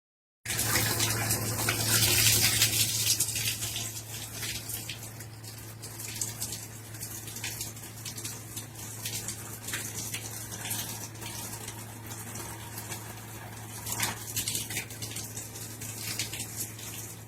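Water running and splashing over a steady low hum, loudest in the first few seconds, with scattered small splashes.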